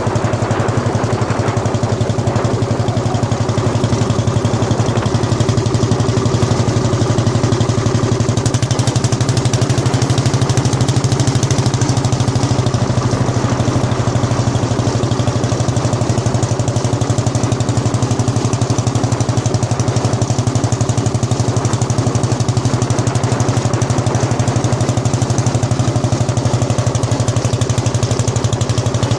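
Lanz Bulldog D3506's single-cylinder two-stroke hot-bulb engine running steadily, with a fast, even thudding beat.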